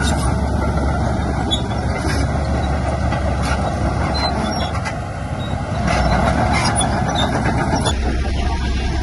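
Heavy diesel earthmoving machinery running steadily, with scattered sharp metallic clanks; the engine note dips about five seconds in and picks up again a second later.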